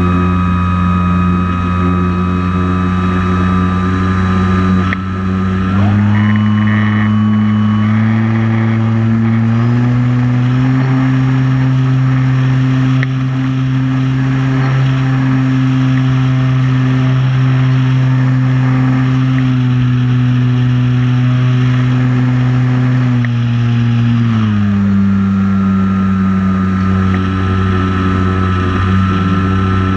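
Multirotor drone's motors and propellers humming steadily. The pitch steps up about six and again about ten seconds in, then drops back near the end as the motors change speed.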